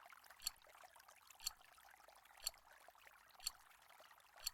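Quiz countdown timer ticking once a second over a faint, steady hiss like running water.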